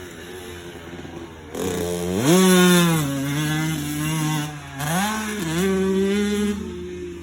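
Dirt bike engine revving. It opens up sharply about a second and a half in and holds a steady high pitch. It drops briefly near five seconds, rises again, then eases off and fades toward the end.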